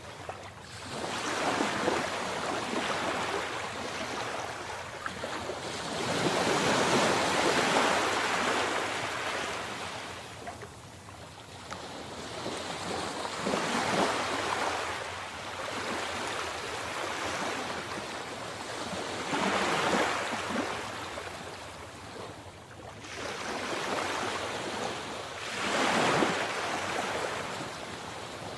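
Sea waves washing onto a shore, the surf rising and falling in five slow surges.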